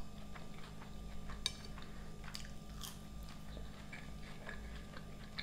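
A person chewing a mouthful of fresh salad close to the microphone: soft, irregular wet clicks and light crunches, several a second, over a faint steady hum.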